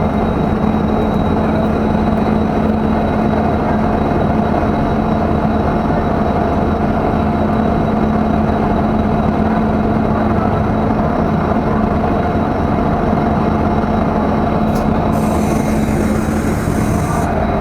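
Passenger train running, a steady loud rumble of wheels on rails with a constant low hum. A brief high hiss comes in near the end.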